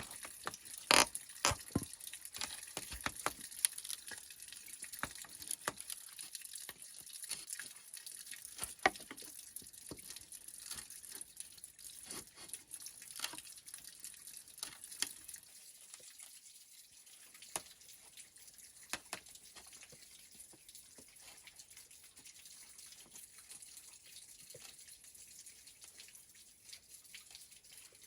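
Irregular light taps and drip-like clicks, frequent in the first half and sparse later, over a faint steady hiss.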